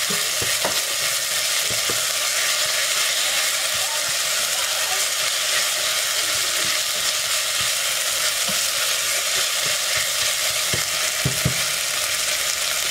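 Diced onion and garlic sizzling in olive oil in a stainless steel pot while a silicone spoon stirs them, with a few soft knocks of the spoon against the pot.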